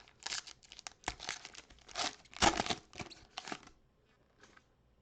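A trading-card pack wrapper being torn open and crinkled by hand, a busy run of rustling that peaks about halfway through, then stops with one last faint rustle.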